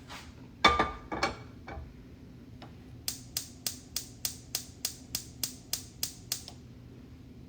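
Kitchen utensils clattering: a few loud metal clinks with a brief ring, then a run of about a dozen evenly spaced sharp taps, roughly three a second, as spices are handled for the chili stuffing.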